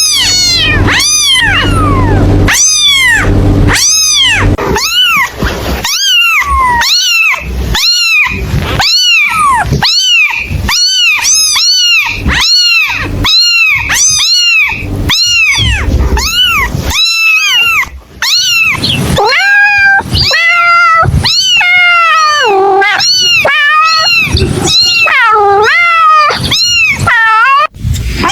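A kitten meowing loudly and over and over, high-pitched rising-and-falling calls about two a second. From about two-thirds of the way through, the calls turn lower and more drawn out.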